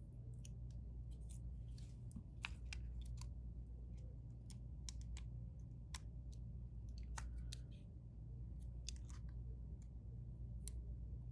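Small irregular clicks and taps of hand tools and small parts being handled during a phone repair, over a steady low electrical hum.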